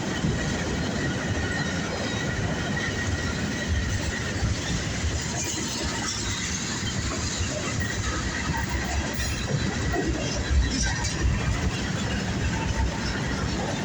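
Norfolk Southern freight train's cars rolling past: a steady rumble and rattle of steel wheels on the rails.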